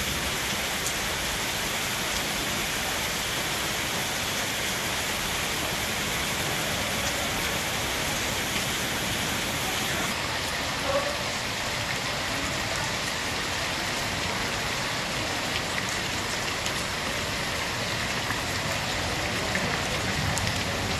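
Heavy rain falling steadily onto a flooded street, a continuous hiss.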